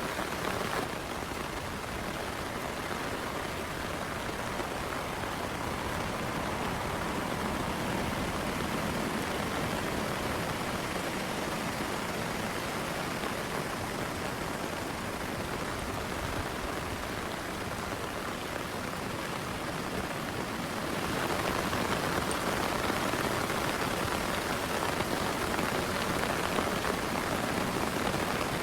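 Heavy rain falling steadily, a dense even hiss of drops, growing louder about two-thirds of the way through.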